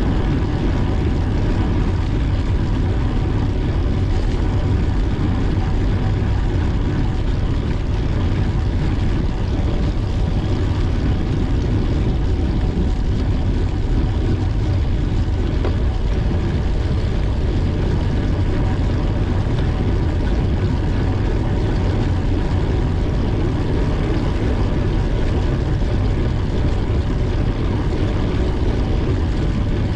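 Steady rush of wind buffeting the microphone while riding a bicycle at speed, with road noise and a faint constant hum underneath.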